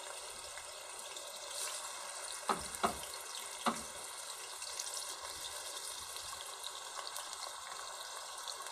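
Mutton liver cubes frying in hot oil in a kadai: a steady sizzle, with a few sharp pops and crackles about three seconds in.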